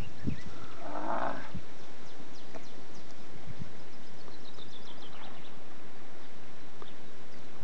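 Songbirds chirping in the background, with one trill that falls in pitch a little past the middle. A brief louder call with several pitches comes about a second in.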